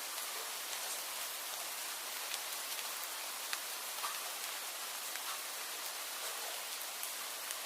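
Steady rain, an even hiss with the occasional distinct tick of a single drop landing close by.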